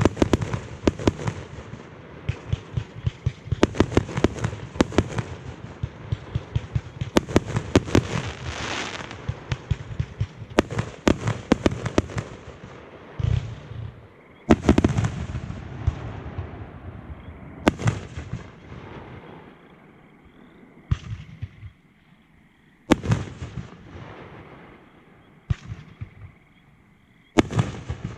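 Fireworks display: a rapid, dense string of shell bursts and crackling reports for about the first half. It then thins to single loud booms a few seconds apart.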